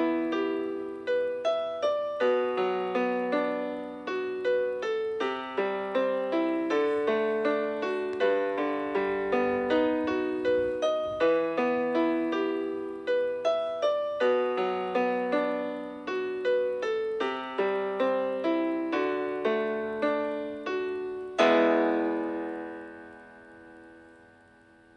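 Solo piano music: a flowing run of notes, then a final chord struck about five seconds before the end that rings on and fades away.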